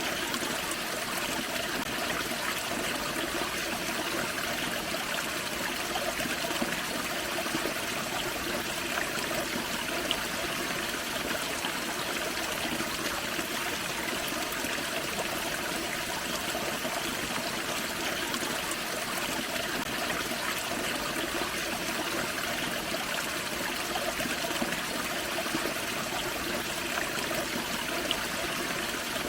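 Small forest creek waterfall: water splashing and trickling over rocks in a steady, unbroken rush.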